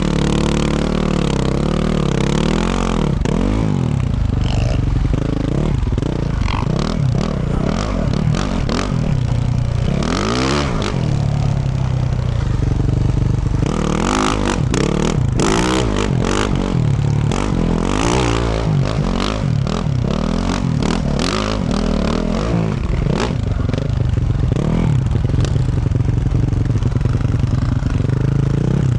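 2024 Yamaha YZ450F's 450cc single-cylinder four-stroke engine through a Yoshimura RS-12 exhaust, revving up and dropping back over and over as the dirt bike is ridden, heard close to the exhaust. Bursts of knocks and clatter come through in the middle stretch.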